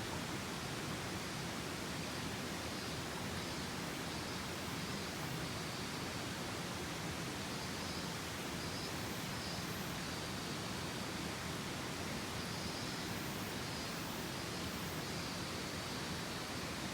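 Mountain stream rushing steadily, an even hiss of flowing water.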